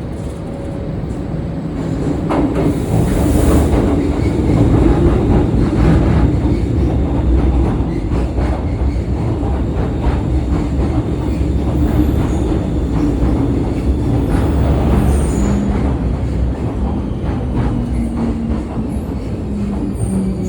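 M-train metro train running on the rails: a steady rumble with wheels clattering over rail joints, growing louder over the first few seconds, and a few brief wheel squeals in the second half.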